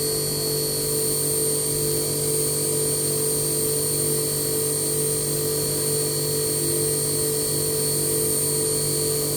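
HAAS CNC mill running while it machines a dumbbell weight disc, a steady high-pitched whine with a lower hum beneath it, unchanged throughout.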